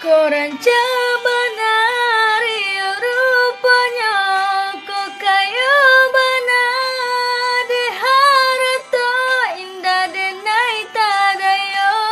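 A high female voice singing a slow melody, with long held notes ornamented by slides and turns between them.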